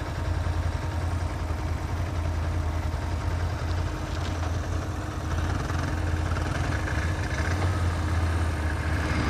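ATV engine running at a steady pace, a low even drone under a steady rushing noise.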